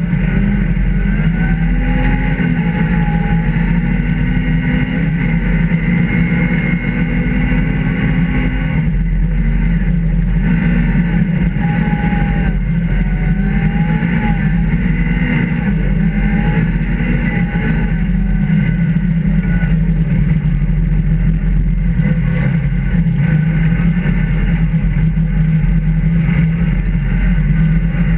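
Rally car engine heard from inside the cabin, pulling hard and revving up and down through the gears. Its pitch climbs and falls again and again as the driver shifts between third and fourth.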